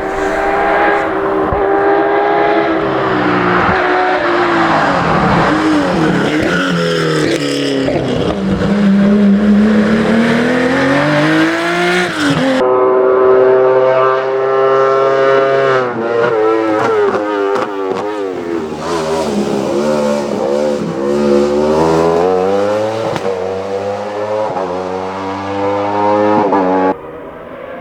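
Race car engines on a hill climb, accelerating hard, with the pitch climbing and dropping again and again through gear changes and braking. The sound cuts abruptly to another car about halfway through and again near the end.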